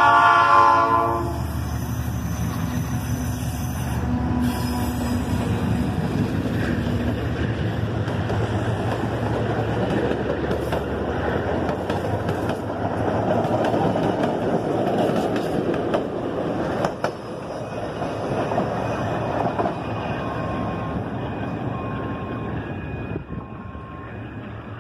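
A diesel locomotive's horn sounds and cuts off about a second in. The locomotive's engine then runs past, followed by passenger coaches rolling by with steady wheel noise and scattered clicks from the rails.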